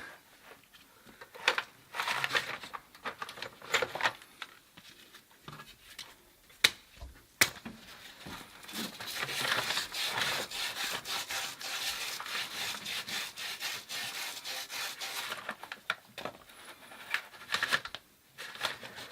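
Copper pipe being scrubbed clean by hand for soldering: scattered scraping strokes, then a long run of rapid back-and-forth rubbing from about halfway through. There are two sharp clicks before the steady rubbing starts.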